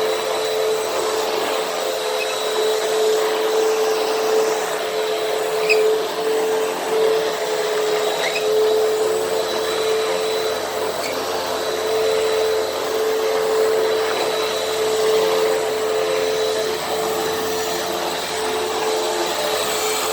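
Hoover WindTunnel T-Series upright vacuum cleaner running steadily while vacuuming, its motor holding one constant whine over the rush of airflow, with a few faint ticks partway through.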